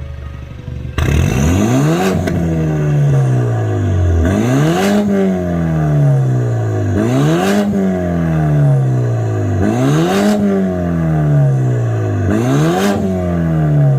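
BMW F32 4 Series with an aftermarket Euro Arts exhaust, revved five times in a row. Each rev climbs quickly and falls back slowly, about every two and a half seconds, starting about a second in.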